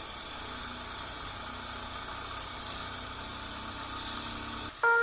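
Motorcycle engine running steadily, a low even hum. Background music cuts in abruptly near the end.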